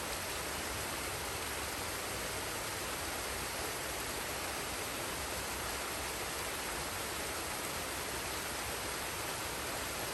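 Forest waterfall and stream: a steady, unbroken rush of falling and running water.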